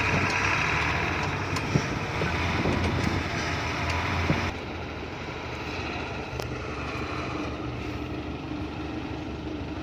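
Hino F18 ten-wheel truck's diesel engine running as it works along a rough track, with a few sharp knocks in the first half. About halfway through, the sound drops suddenly and settles into a quieter, steady run.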